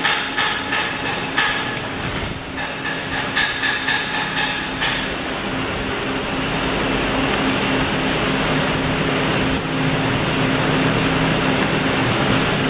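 Rapid hammer blows on steel ring out for the first few seconds, like slag being chipped off a weld. From about five seconds in they give way to a steady, even crackling hiss, typical of an electric arc welding.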